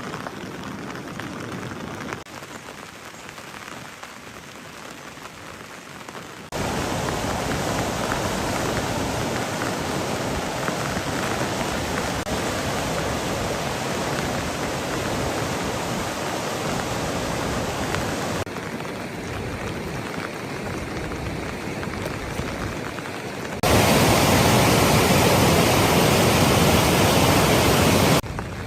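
Steady rain falling, an even hiss that jumps suddenly in loudness several times. It is loudest for about four seconds near the end.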